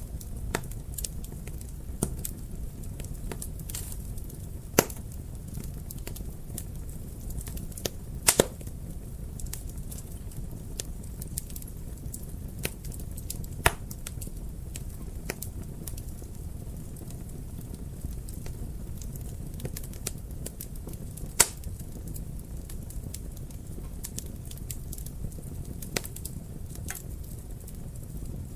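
Fire crackling in a fireplace: irregular sharp pops and snaps over a steady low rumble of the flames, with the loudest pops about five, eight and twenty-one seconds in.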